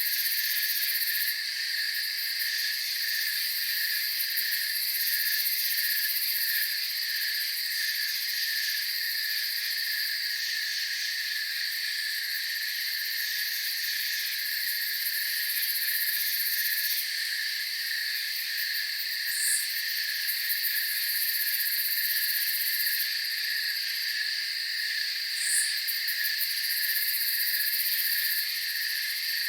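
Night insect chorus of crickets: a steady pulsing trill at about two pulses a second over a continuous high-pitched buzz, with a few brief higher chirps.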